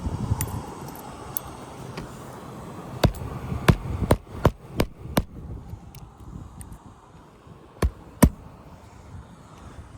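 Hammer driving watertight cap nails through asphalt shingles into the roof deck. There is a quick run of about six sharp strikes a few seconds in, then two more near the end.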